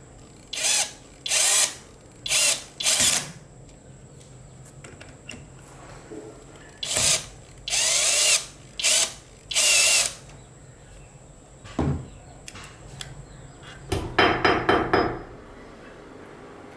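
Electric drill run in short bursts, about eight of them in two groups, some rising slightly in pitch as the motor spins up. Near the end comes a quick rattle of sharp clicks lasting about a second.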